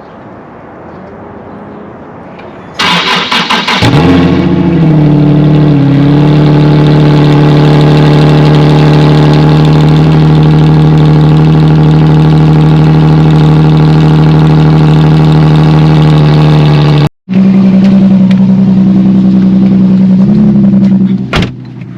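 Infiniti G37S's V6 engine cold-started: the starter cranks for about a second, the engine catches and settles into a steady, fast cold idle. The car has an exhaust leak, yet the start is not that loud.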